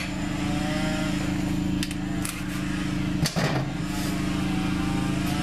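A motor running with a steady hum, with a few short knocks and clatters over it.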